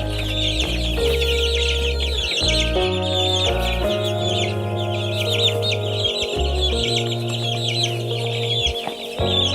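A crowd of baby chicks peeping rapidly and without a break, over background music with held notes and a bass line.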